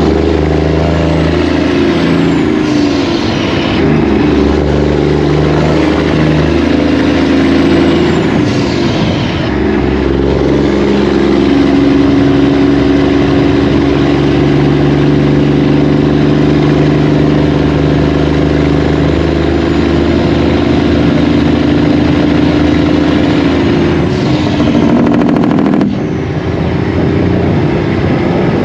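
Semi truck's diesel engine running under way with a steady low rumble, its note stepping to a new pitch a few times.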